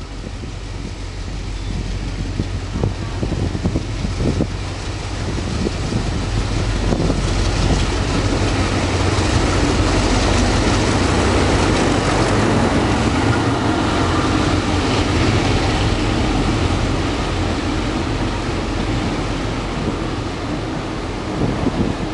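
DF11 diesel-electric locomotive and its passenger coaches running through a station without stopping: a low engine hum and rail rumble that grow louder over the first several seconds, stay loudest through the middle, and ease off near the end.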